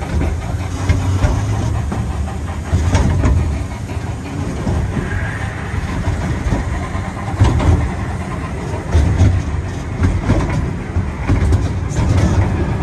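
Amusement-park ride train running along its track: a steady low rumble with uneven clicks and clatter from the wheels.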